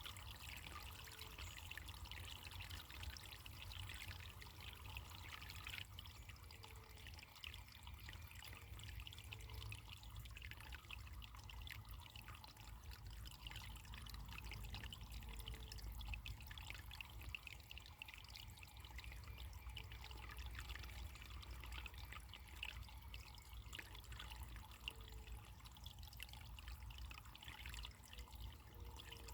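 Running water trickling and splashing steadily and faintly, like a small natural stream.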